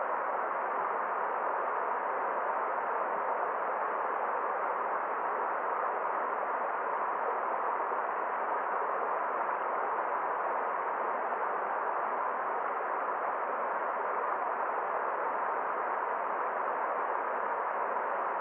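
Forest stream water flowing steadily: an even, unbroken rush with a muffled, dull tone and no change throughout.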